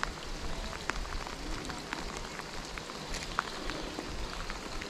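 Steady rain: an even hiss with many individual raindrops tapping close by.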